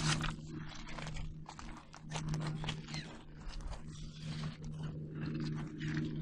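Seagulls calling now and then among irregular crunching clicks.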